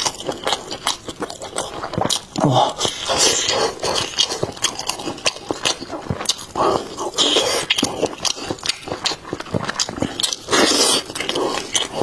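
Close-miked chewing of roast chicken drumstick meat: wet mouth clicks and smacks several times a second, with bursts of tearing meat.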